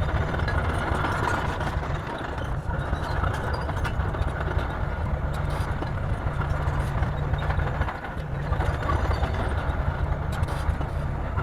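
Bulldozer's heavy diesel engine running steadily under work, a deep continuous drone that dips briefly twice.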